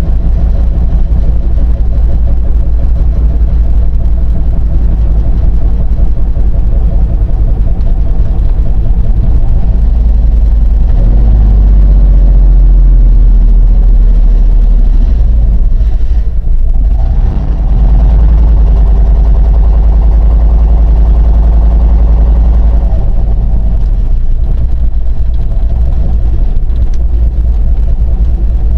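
Truck engine and road noise while driving: a steady, loud low drone. The engine pitch rises and falls in the middle, with a brief drop about two-thirds of the way through.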